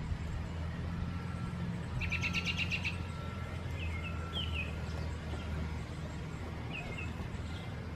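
Songbirds singing: a fast trill of repeated high notes about two seconds in, then a few short chirps, over a low steady hum.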